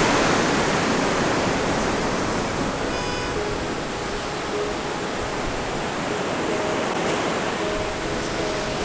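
Ocean surf breaking and washing onto a sandy beach: a steady rush of waves.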